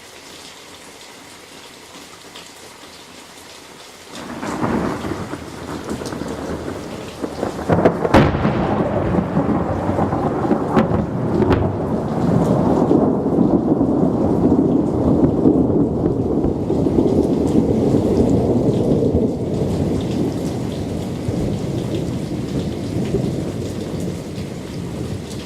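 Steady rain, then thunder from a close lightning strike: a rumble builds about four seconds in, a sharp crack comes about eight seconds in, and a long rolling rumble follows and slowly fades.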